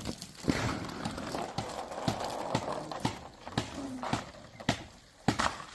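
A series of sharp knocks, about two a second, with a short lull near the end.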